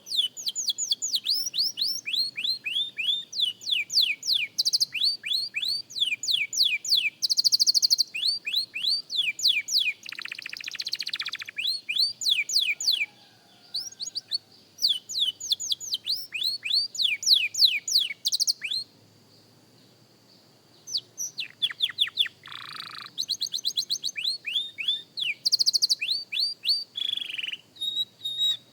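A young canary practising its song: long runs of quick, repeated downward-sweeping whistled notes mixed with fast buzzy trills, broken by short pauses, the longest about two-thirds of the way through.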